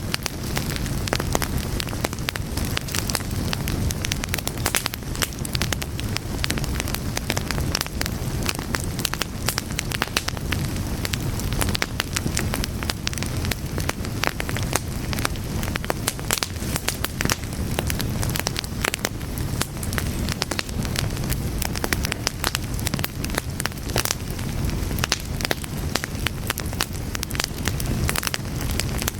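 A fire burning steadily, with a low rumble of flames and dense crackling and popping throughout.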